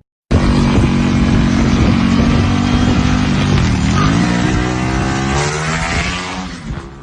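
Dirt bike engine running loud and close, starting abruptly. The revs drop about three and a half seconds in, climb again, and the sound cuts off suddenly at the end.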